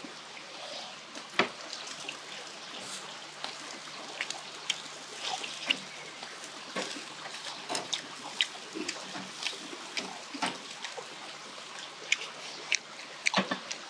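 Mukbang eating sounds: people chewing grilled pork, a string of short, wet smacks and clicks scattered irregularly over a steady background hiss.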